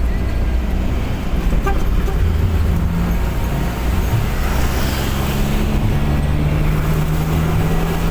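A car on the move: a steady low engine hum, its pitch stepping up and down, under a constant wash of road and tyre noise.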